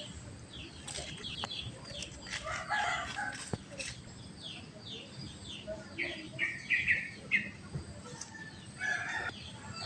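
Birds calling: many short, high chirps that fall in pitch, repeated irregularly, with a few sharp clicks in the first few seconds.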